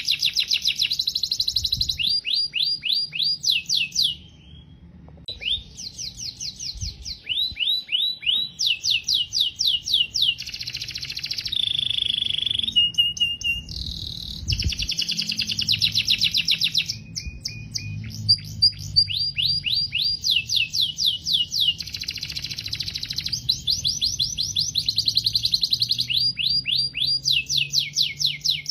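Domestic canary singing: rapid trills of repeated high notes, changing from one trill to the next every second or two, with a brief pause about four seconds in.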